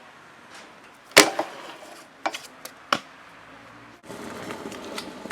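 Sharp impacts of a trick scooter on hard ground: one loud smack about a second in, then three lighter clacks over the next two seconds. Near the end a steady rolling rush takes over.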